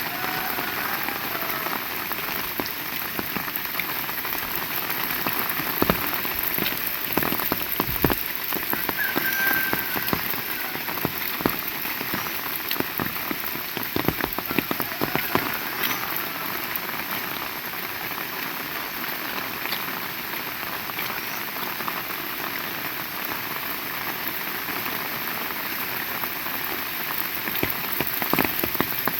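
Heavy rain falling steadily, with many sharp individual drop hits scattered through the constant hiss.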